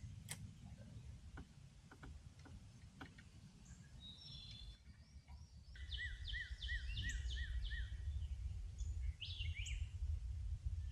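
A songbird singing: a short phrase, then a quick run of about seven repeated notes, then another phrase near the end, over a steady low rumble and a few faint clicks.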